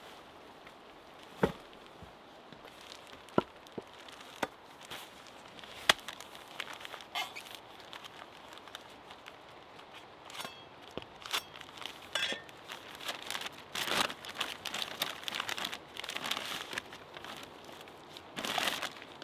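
A few separate sharp clicks or knocks, then from about six seconds in a busier run of rustling, crinkling handling noises.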